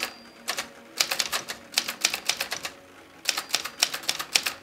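Typewriter keys clacking in quick runs of strokes, two longer runs with short pauses between.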